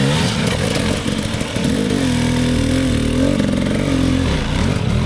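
Dirt bike engine revving up and down under throttle as it rides through a race section. The pitch rises and falls repeatedly, holds high for a while mid-way and drops briefly near the end.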